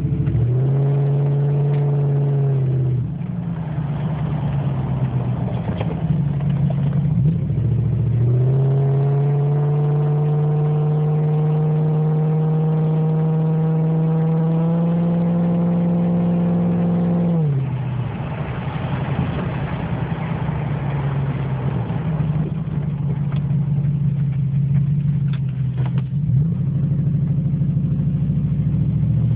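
2004 Dodge Dakota's 4.7-litre V8 running with its muffler and tailpipe removed, open exhaust. It pulls under throttle with a steady drone for a couple of seconds near the start, then again for about nine seconds with the pitch creeping slowly up, each time dropping suddenly to a lower, rougher sound as the throttle comes off.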